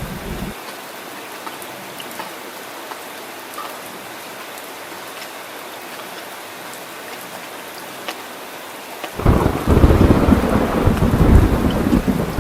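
Steady heavy rain with thunder: a low rumble fades out about half a second in, then about nine seconds in a loud, deep thunder rumble breaks in suddenly and keeps rolling.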